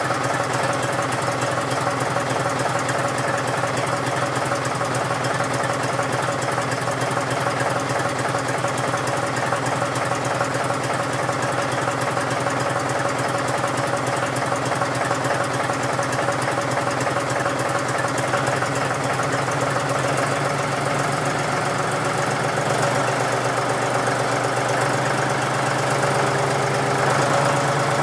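John Deere 5103 tractor's diesel engine idling with a steady clatter shortly after a cold start in below-freezing weather, not yet warmed up. Its note shifts slightly about three-quarters of the way through.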